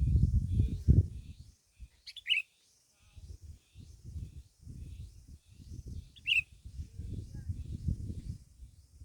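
A bird gives two short, sharp chirps that drop in pitch, about two seconds in and again about six seconds in, over a faint, quick high twitter. A low rumbling noise is loudest in the first second and comes and goes through the rest.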